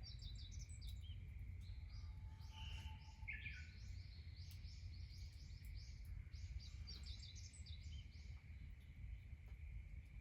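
Small birds chirping: quick series of short, high notes, with a thin steady high tone and a low steady rumble underneath.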